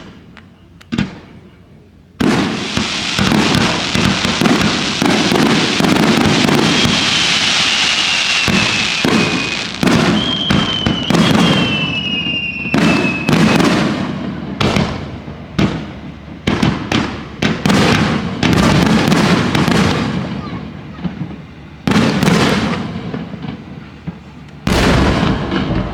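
Fireworks display: a dense barrage of bursts and crackling, with a few falling whistles in the middle, then separate bursts spaced out toward the end.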